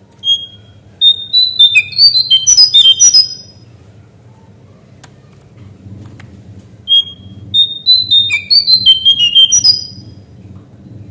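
A cingcoang coklat (lesser shortwing) singing two quick phrases about four seconds apart. Each is a rapid run of short, clear whistled notes that jump up and down in pitch. A faint steady hum runs underneath.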